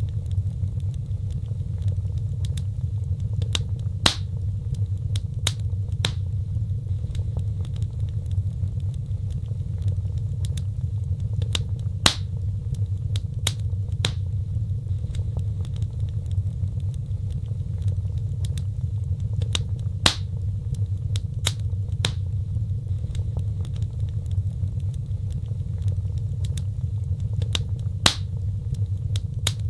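Wood fire crackling, with sharp pops over a steady low rumble. A few louder pops come about every eight seconds.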